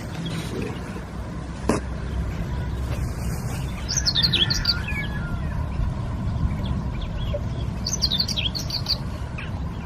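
A songbird calling in two short bursts of rapid high chirps, about four and about eight seconds in, over a steady low rumble. There is a single sharp click just before two seconds in.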